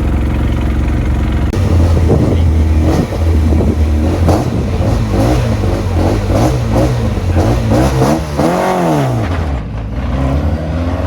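A rally car's engine idles, then is revved up and down again and again, held on the start line. About eight seconds in the revs climb steeply and fall away as the car launches, and another car's engine rises near the end.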